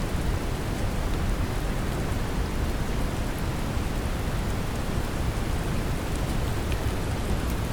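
Brown noise mixed with steady rain: a deep, even rumble of noise under a rain hiss, with a few faint drop ticks.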